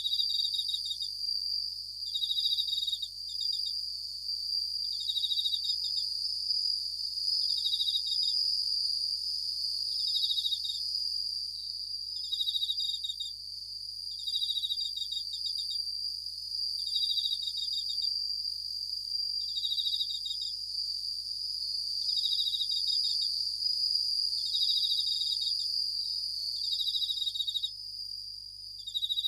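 Japanese bell crickets (suzumushi) singing: short pulsed trills that repeat about every two seconds over a steady high-pitched ringing.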